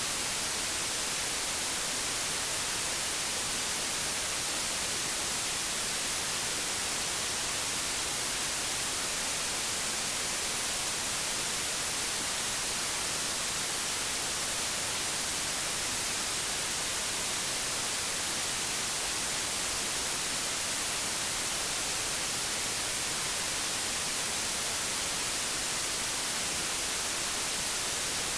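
Static hiss from an old analogue television tuned to no channel, steady and unbroken, loudest in the high frequencies.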